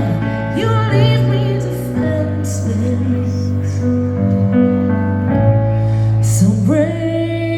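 Live rock-concert music: slow, held chords changing every second or two over a steady low bass, with a voice briefly sliding through notes without words near the start and again near the end.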